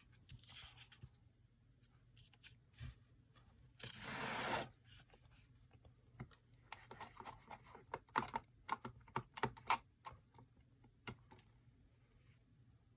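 Quiet paper-craft handling: a short paper rustle about four seconds in, then a run of light taps and clicks as a rubber stamp is inked and pressed onto paper.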